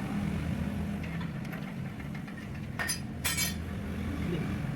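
Two short metallic clinks about half a second apart, a little past the middle, of steel parts or tools knocking together, over a steady low hum.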